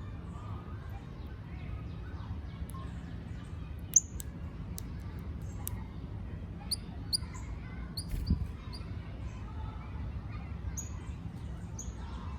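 Garden birds giving short, sharp high chirps, scattered irregularly, over a steady low background rumble. A dull thump about eight seconds in.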